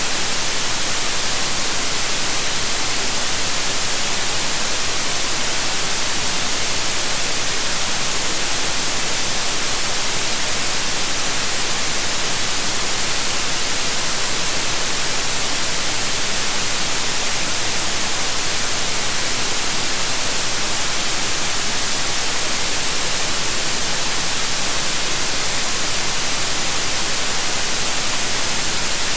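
Steady white noise: an even, unbroken hiss with most of its energy in the high frequencies.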